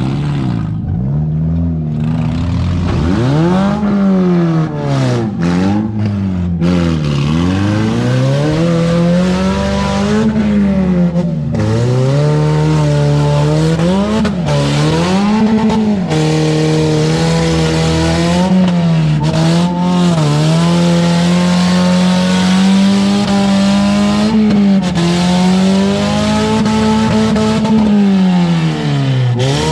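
Demolition derby car engine revving hard, its pitch climbing and dropping over and over, then held at high revs for several seconds at a time near the end.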